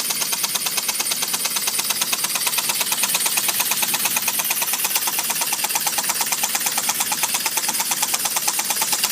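Homemade steam engine running fast, its exhaust chuffing in a rapid, even rhythm of hissing puffs.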